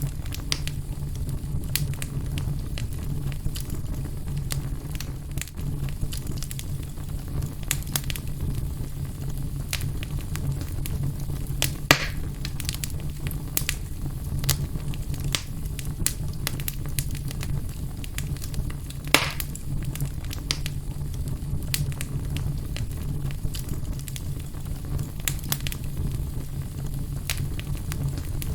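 Wood fire burning in a fireplace: steady low rumble of the flames with constant small crackles and a few louder pops, the loudest about twelve and nineteen seconds in.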